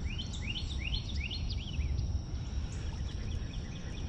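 Wild birds chirping: a quick run of short rising chirps in the first two seconds, then fainter repeated chirps, over a steady low outdoor rumble.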